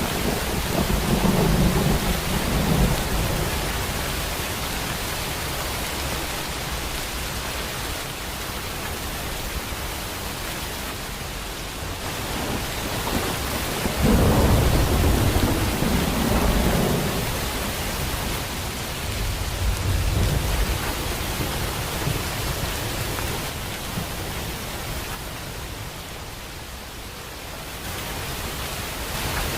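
Steady downpour of rain with rolling thunder: a rumble near the start, the loudest one about halfway through, and a weaker one a few seconds later.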